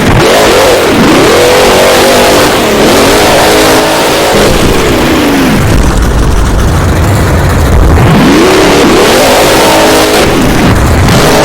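Monster truck engine revving hard, its pitch climbing and dropping several times as the throttle is worked, with a lower, steadier rumble through the middle stretch. Recorded at close to full scale, so it sounds loud and saturated.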